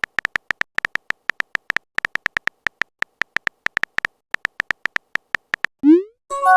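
Phone keyboard typing clicks, several a second in an uneven rhythm. About six seconds in comes a quick rising swoosh of a message being sent, then a short chime of a few tones announcing an incoming message.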